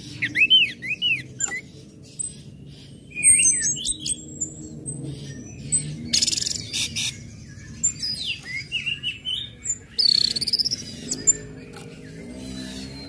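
Orange-headed thrush singing a varied song: quick arched chirps, thin high whistles, and a short harsh, hissing stretch about six seconds in and again about ten seconds in.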